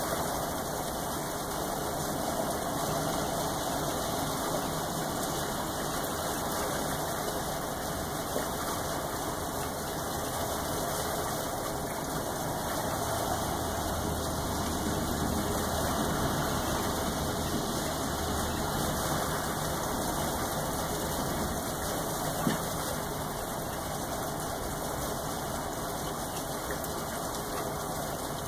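Steady rain falling, an even hiss with no let-up. A low rumble swells under it about halfway through and fades again, and a couple of single sharp drip-like ticks stand out.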